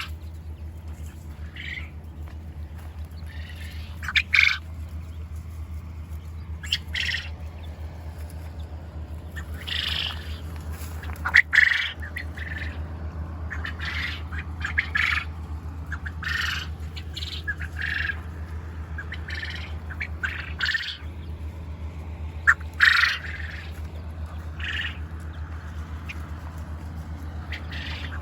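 Quail calling: many short, harsh calls at irregular intervals, over a steady low hum.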